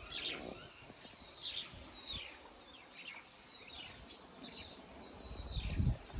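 Birds calling: a run of high whistled notes, each sweeping quickly downward, roughly one a second. Low thumps and rumbling come in near the end.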